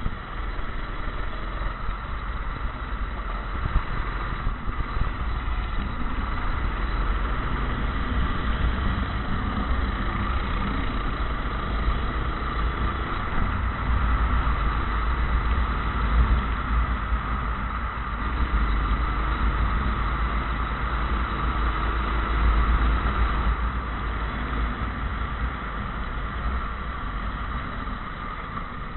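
Go-kart engine running continuously through a race on a wet track, a steady engine sound over a deep rumble.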